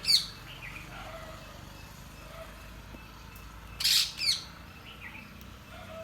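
Birds calling: a loud call right at the start and two more loud calls close together about four seconds in, with fainter short chirps in between.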